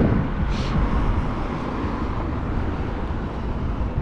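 Wind buffeting an action camera's microphone, mixed with low rumble from an electric scooter rolling along pavement; a short hissy rush about half a second in.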